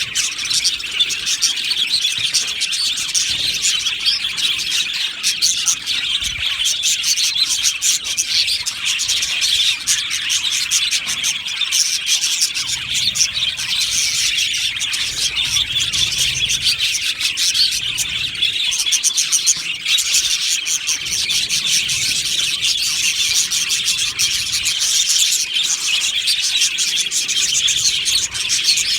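A flock of budgerigars chirping and warbling together in a continuous, busy chatter with no pauses.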